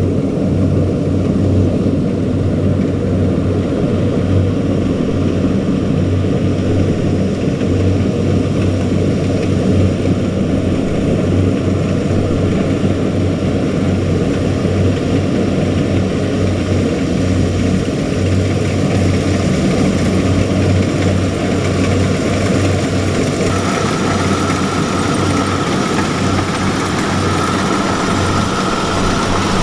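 Heavy diesel engine of farm harvesting machinery running steadily with a deep hum. A higher steady whine joins in near the end.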